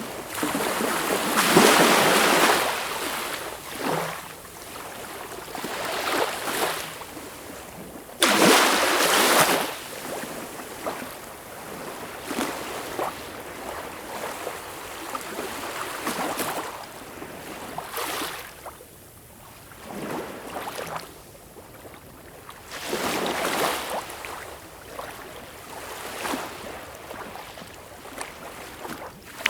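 Sea waves breaking and washing in, in surges every several seconds. The biggest breakers come about a second in, about eight seconds in and again near the end.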